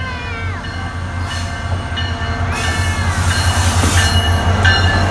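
SunRail commuter train's MotivePower MP32PH-Q diesel locomotive pulling into the station, its low engine rumble growing louder as it draws near and passes close by. Short high squealing tones rise and fall over it, and steady high tones come in near the end.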